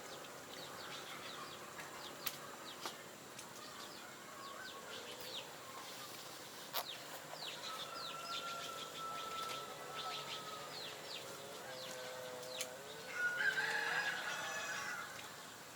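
Free-ranging chickens: many short high chirps and held calls, with a rooster crowing loudest near the end.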